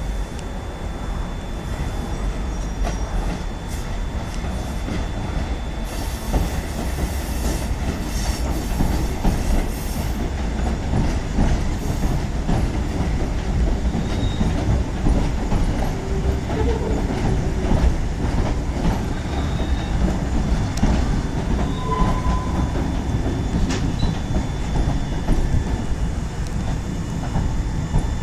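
London Underground C stock train running on the track, its wheels rumbling and clattering on the rails. A hiss sounds for a few seconds about six seconds in.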